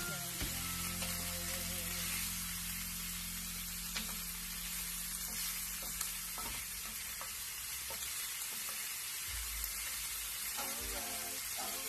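Pre-boiled pork belly sizzling as it fries in a pan, a steady hiss with a few sharp taps of a utensil as it is stirred.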